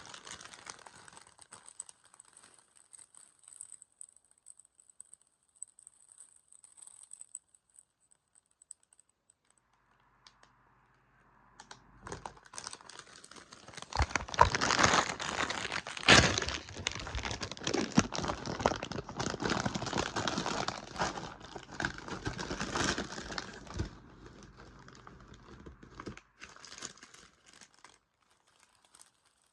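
Crinkling of a crisp packet as it is handled, with faint scattered crackles at first, then a long stretch of dense, loud crackling in the middle that dies away near the end.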